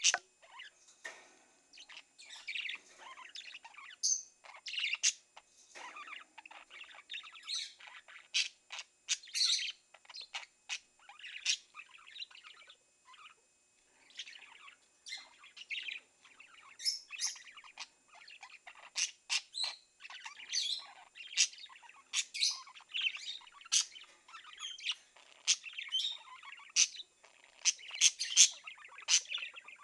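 Several pet budgerigars chirping and warbling without a break: a busy chatter of short, sharp chirps with a brief lull about halfway through.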